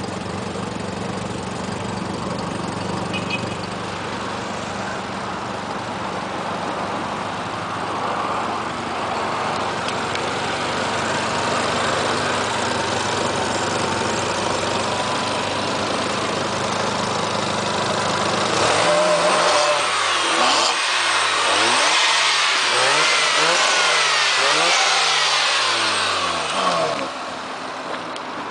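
1992 Mazda RX-7's twin-turbo 13B rotary engine idling steadily, then revved up and down repeatedly in quick blips for several seconds before dropping back to idle near the end.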